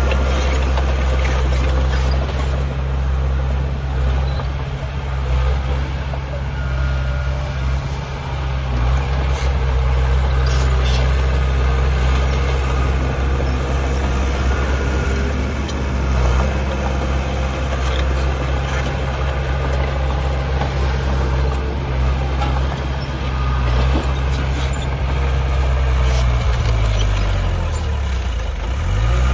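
Heavy diesel engine of earthmoving machinery running steadily, with scattered metallic clanks. Near the end the engine speed drops sharply and then comes straight back up.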